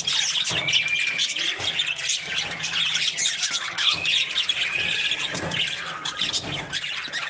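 A flock of parrots chattering, many short chirps, squawks and whistled notes overlapping without a break.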